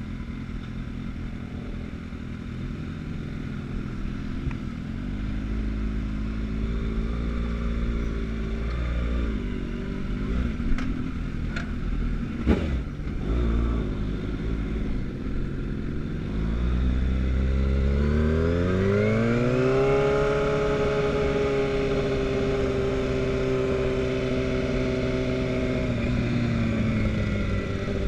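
Sport motorcycle engine pulling away from a low idle: the engine note rises about five seconds in, settles, then climbs steeply again a little past halfway and holds a steady pitch under way, easing off slightly near the end. A couple of short sharp knocks come midway.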